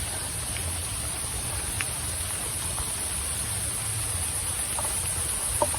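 Rain falling steadily through forest foliage, an even hiss with a steady high-pitched band on top and a few faint ticks.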